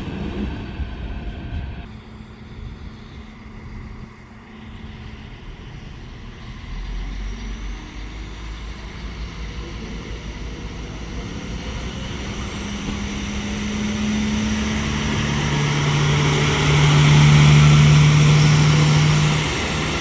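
Train approaching through the station, its running noise building steadily and peaking near the end, with a steady low hum joining in over the last few seconds.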